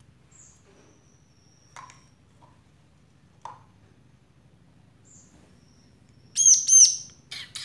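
Bar-winged prinia calling while held in the hand: faint thin high peeps at first, then two loud, sharp calls about six seconds in, followed by a few harsher, noisier calls near the end.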